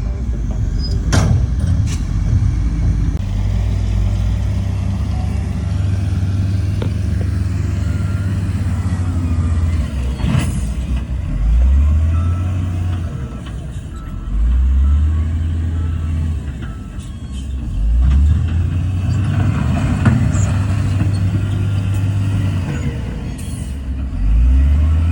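Heavy diesel engine of earthmoving machinery running steadily and revving up four times under load, with a few sharp metal clanks near the start and about ten seconds in.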